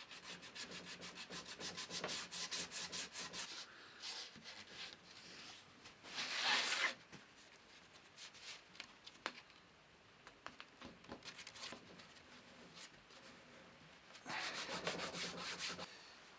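Wood being sanded by hand with abrasive paper: a quick run of rapid back-and-forth rasping strokes, one longer, louder stroke about six seconds in, and another burst of strokes near the end. It is the edge of a guitar top board being finessed flat for a glue joint.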